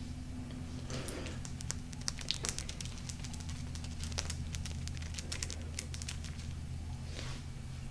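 Tapping and scratching on golden crystal stones: a quick, irregular run of sharp clicks, then a short scratch near the end, over a steady low hum.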